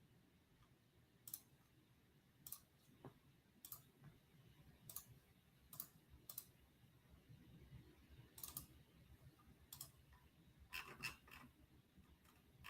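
Faint, irregular computer clicks, about a dozen spaced a second or so apart, with a quick run of several near the end.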